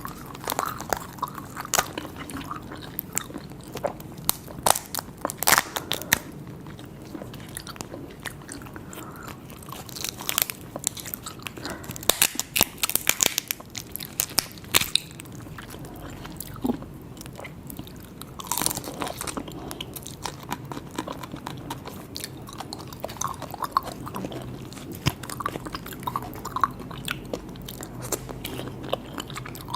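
Close-miked eating: chewing and crunchy bites of seafood, with bunches of sharp crunching clicks several times, the densest in the middle.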